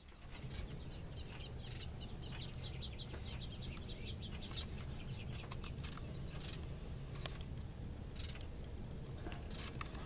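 Small songbirds chirping and chattering in quick series of short high notes, over a steady low hum.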